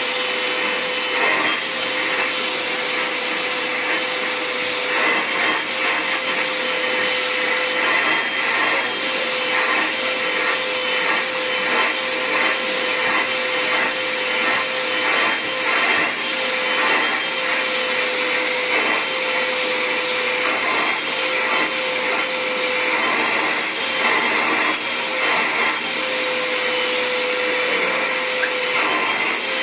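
Vacuum cleaner running steadily with a high whine, being drawn over a cat's coat to pull out shed fur; its motor note dips slightly now and then.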